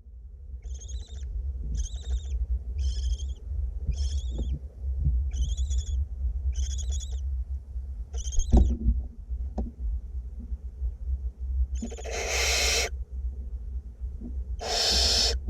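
Barn owlets giving their rasping, hissing 'snore' calls: a run of eight short calls about one a second, then two longer, louder hissing screeches near the end, typical of food-begging chicks. A knock sounds about eight and a half seconds in, over a steady low hum.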